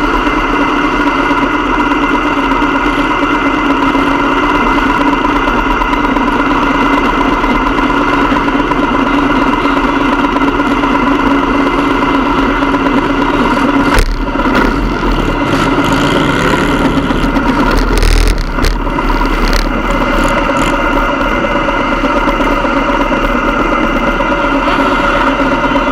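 Motorcycle engine running steadily at a constant pitch, with two sharp knocks about halfway through and a few seconds later.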